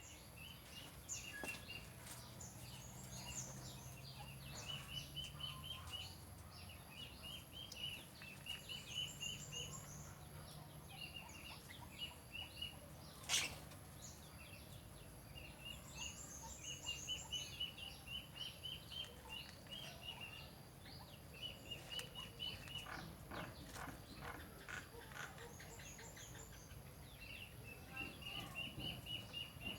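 Birds calling: repeated rapid series of short chirps, with a run of harsher repeated notes about two-thirds of the way through and a single sharp click about 13 seconds in.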